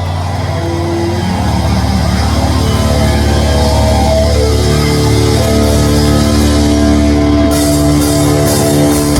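Loud live rock band music: long, held electric guitar and bass notes layer up over a steady low drone, a build-up ahead of a song.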